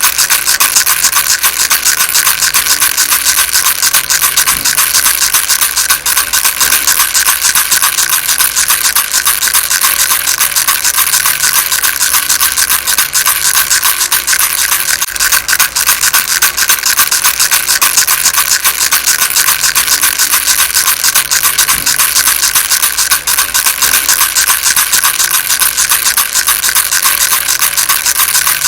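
A rattle shaken without pause, its loose beads making a dense, rapid, high-pitched clatter that holds steady throughout.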